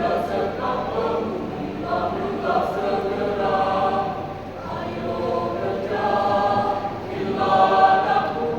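Youth choir singing together in long, held phrases, swelling loudest near the end.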